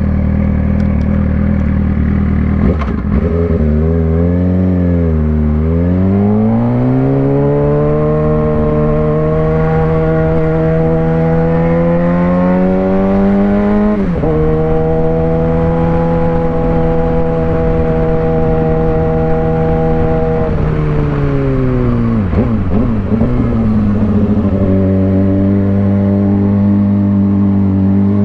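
Suzuki GSX-R600 inline-four engine under way: its pitch climbs long and steadily under acceleration, drops sharply about halfway at a gear change, holds steady while cruising, then falls as the bike slows and starts to climb again near the end.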